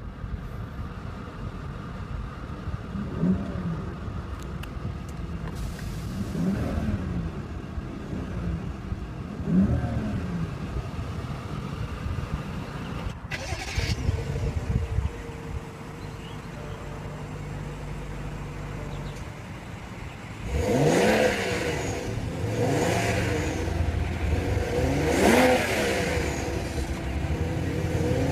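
BMW 535i's 3-litre twin-turbo inline-six running and being revved: three light blips of the throttle, each rising and falling back to idle, then about two-thirds of the way through, louder repeated revs roughly every two seconds.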